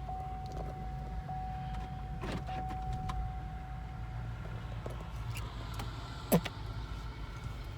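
Car interior sounds: a steady low rumble under a steady high tone that stops about halfway through, a few light clicks, and one sharp clunk about six seconds in.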